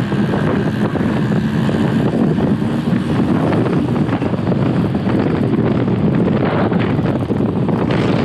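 Wind buffeting a helmet-mounted GoPro's microphone while riding a motorcycle, with the bike's engine running steadily underneath.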